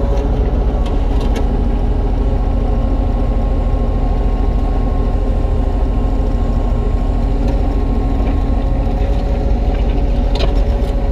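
Kubota U35-3 mini excavator's diesel engine running steadily under work, with a steady whine over the engine note while it digs a trench.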